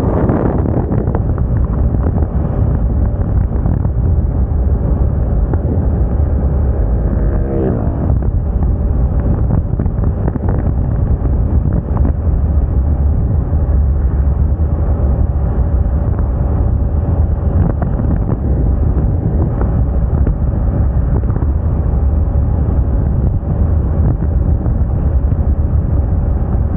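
Wind buffeting the microphone during a ride on a Moda Moca 110 scooter, over a steady engine drone. A brief rush swells right at the start, and about eight seconds in a sound slides down in pitch.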